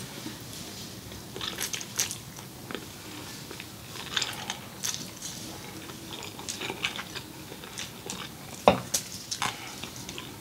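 Close-miked eating sounds: wet chewing and lip smacks of a mouthful of noodles and meat, with short clicks scattered throughout and one louder, sharper knock about nine seconds in.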